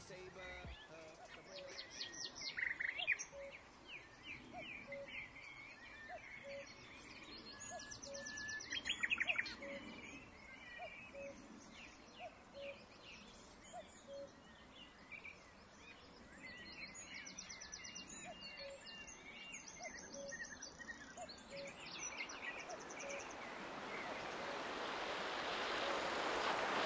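Birds chirping and trilling, with a soft low note repeating about every three quarters of a second; near the end a rushing noise swells steadily louder.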